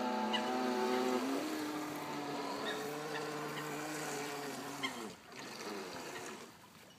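Electric motor and jet drive of a 1:5 scale RC jet ski running with a steady whine, shifting pitch about a second in, then winding down and stopping about five seconds in. The boat is slower than expected, with the battery mounted too far back.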